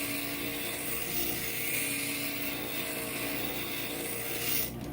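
Inland stained glass grinder running, with a steady motor hum and a hissing grind of glass against the bit; the hissing drops away near the end.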